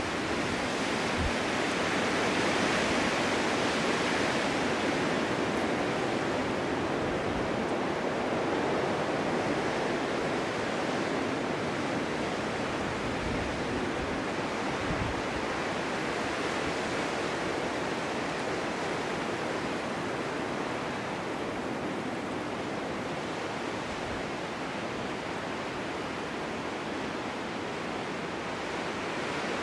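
Snowstorm wind blowing steadily, a broad rushing hiss that swells a few seconds in and then slowly eases off.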